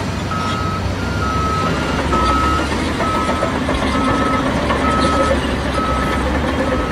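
Reversing alarm on a dump truck backing up: a steady single-tone beep repeating about once a second, about eight beeps, over the low rumble of the diesel engine.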